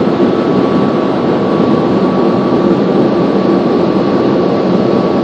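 Automatic car wash machinery heard from inside the car: a loud, steady rushing noise with a constant high whine on top.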